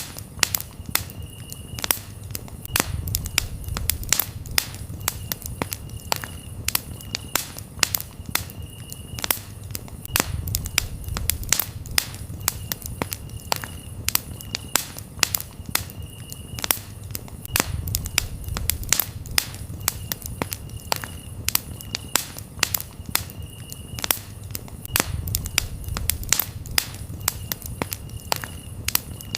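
Campfire crackling with frequent sharp pops, over a low rumble that swells about every seven seconds. Crickets chirp in a steady pulsing rhythm behind it.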